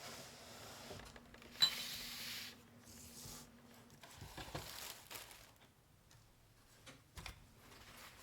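Small objects being handled while packing an order: scattered light clicks and knocks, with a sharp click about one and a half seconds in followed by a brief rustle.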